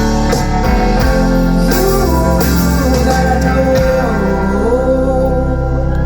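Live band music: guitar strums in the first second, then a chord held and ringing, with a wavering held note over it.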